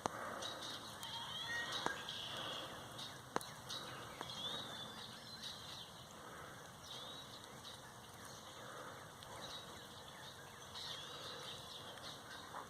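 Faint outdoor ambience with birds chirping in short scattered calls, and a couple of sharp clicks about two and three and a half seconds in.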